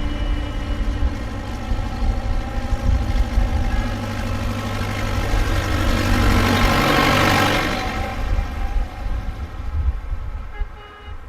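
Tractor engines running steadily, with a louder rushing swell from about six to eight seconds in.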